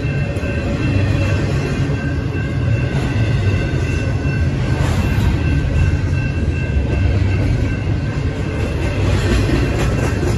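A double-stack intermodal container train rolling past on the rails: a loud, steady rumble of wheels and well cars, with thin high steady tones riding over it.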